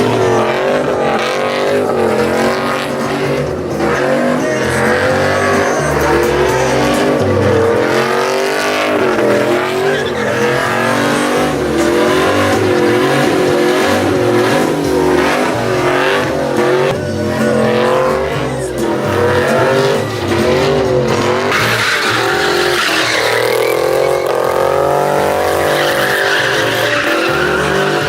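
Truck engine revving hard, its pitch climbing and dropping again and again, over the hiss and squeal of tyres spinning on pavement in burnouts and donuts. The tyre squeal grows louder and fuller in the last few seconds.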